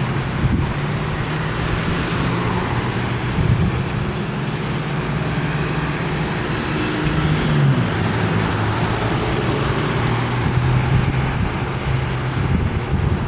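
Strong storm wind blowing across the microphone, over a steady low mechanical hum that shifts in pitch briefly around the middle.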